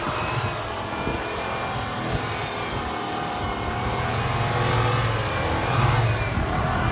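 Chevrolet LS V8 truck engine revving hard under load, its pitch climbing to a peak about six seconds in.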